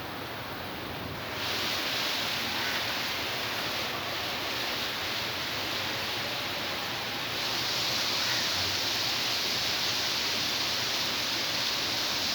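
Heavy rain pouring down in a sudden downpour, with the wind gusting. The hiss grows louder about a second and a half in, and again about halfway through.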